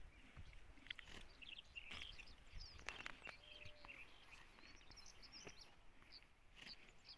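Faint, scattered chirping of small birds, many short calls close together, over a faint low rumble.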